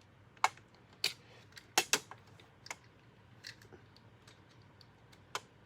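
Scattered light clicks and taps, about eight spread irregularly over several seconds, from hands handling small hard parts of a vacuum cleaner's cord.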